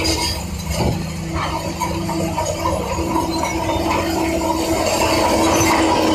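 Heavy construction machinery's diesel engine running steadily: a continuous low drone with a held whine above it, growing a little louder toward the end.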